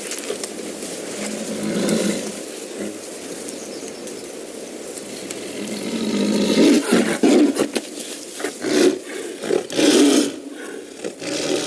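A Siberian tiger caught in a snare snarling and roaring in repeated rough outbursts, most of them in the second half. This is a trapped, agitated tiger warding off the people coming towards it.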